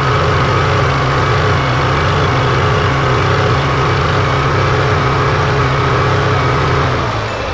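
Engine sound of a toy JCB backhoe loader: a loud, steady, low diesel-like idling sound that fades near the end.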